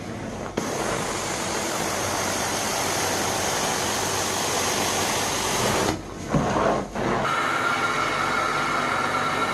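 Carpet extraction tool's suction: a steady rushing of air and water drawn through the tool. It breaks off briefly about six seconds in, as the tool comes off the carpet, then picks up again with a steady high whistle.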